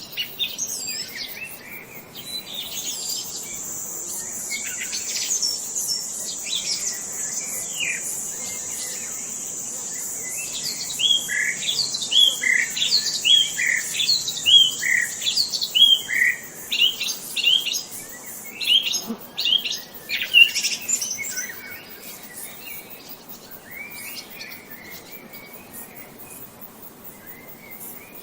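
Songbirds chirping and calling, with a run of evenly repeated chirps, about two a second, near the middle. A thin, high, steady buzz runs behind them through the first half and stops about two-thirds of the way in.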